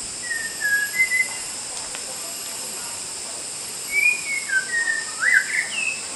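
Wild white-rumped shama (murai batu) singing clear whistled phrases: a short group of notes near the start, then a longer run about four seconds in ending in quick rising slurs.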